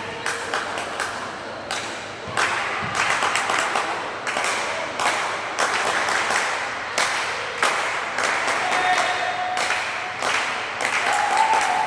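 Indoor volleyball match: sharp slaps of ball hits and hand claps over crowd noise that swells about two seconds in, echoing in the hall, with held-note shouts from the crowd near the end.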